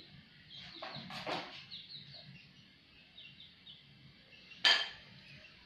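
Small birds chirping repeatedly in short falling notes, with a couple of brief rustling strokes about a second in and one sharp click near the end, the loudest sound here.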